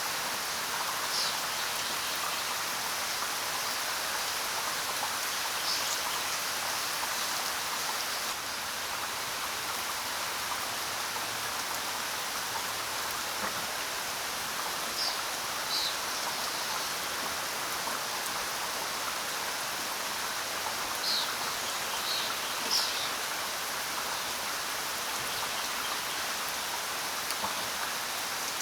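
Steady rain falling, with a few short, high bird chirps now and then.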